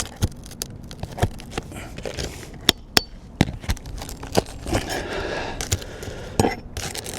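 Asphalt shingle tearing and scraping as a nail is worked out with a metal roof snake, with many sharp clicks of metal on shingle and a longer scraping stretch about five seconds in. The shingle is ripping and pulling through around the nail, damage that cannot be repaired.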